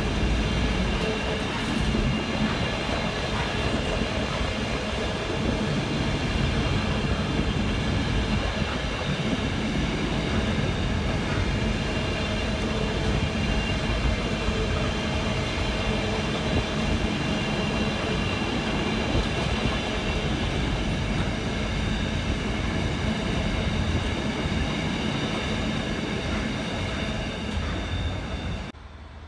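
Intermodal container wagons of a freight train rolling past on the line: a steady heavy rumble of wheels on rail, with a high ringing held over it. It cuts off abruptly near the end.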